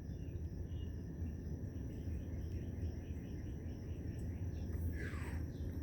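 Insects chirping steadily in the night, a constant high tone with faint repeated chirps over a low steady hum. A short falling sound comes near the end.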